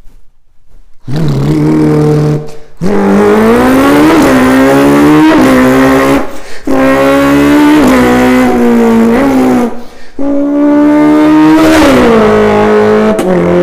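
A person imitating a car engine with the voice: a held engine-like drone that dips and climbs back up again and again, like gear changes under acceleration, in three long runs with short breaks between them.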